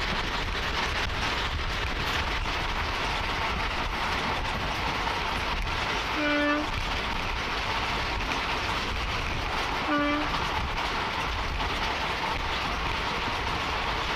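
Steady rumble and rush of a moving train heard from on board, with two short horn toots about six and ten seconds in.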